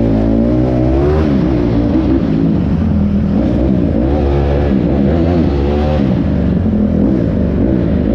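Dirt bike engine revving, its pitch rising and falling over and over as the throttle is blipped.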